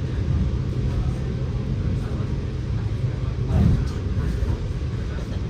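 Scania K94UB bus engine running under way, heard from inside the bus as a steady low drone. A louder knock comes a little over halfway through.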